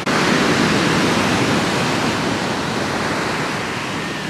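Ocean surf: waves breaking and washing up the shore, a loud, even rush that is strongest at the start and slowly eases off.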